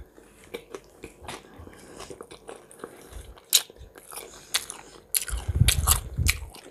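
Close-miked mouth sounds of a person chewing food, with wet smacks and small clicks; the chewing is louder and heavier for about a second just after the five-second mark.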